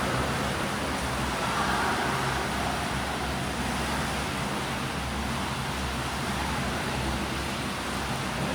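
Swimming pool ambience: a steady, even noise with a low rumble, from swimmers and water in a reverberant pool hall.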